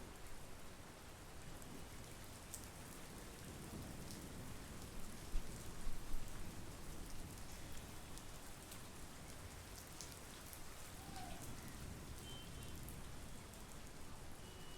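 Steady monsoon rain falling, with scattered sharper drops throughout. A few louder thumps stand out about five to six seconds in.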